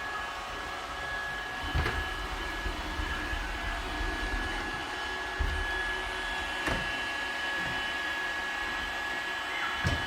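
yeedi Mop Station robot vacuum cleaner running, a steady whirr of its suction fan and drive motors with a thin high whine. Four short knocks break it.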